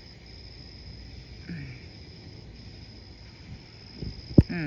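Crickets chirring steadily in the night air, with a low background rumble. A single sharp low thump sounds near the end.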